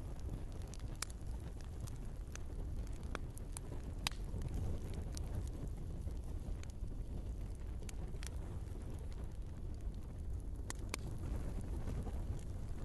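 Wood fire burning in a fireplace: a steady low rumble of flames with sharp, irregular crackles and pops from the burning logs, about nine in all.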